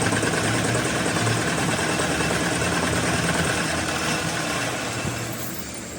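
An engine or motor running steadily, easing off slightly near the end.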